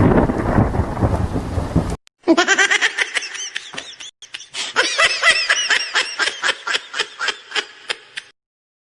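Thunderstorm rumble with heavy rain that cuts off suddenly about two seconds in. It is followed by a long run of laughter in quick 'ha' pulses, about four or five a second.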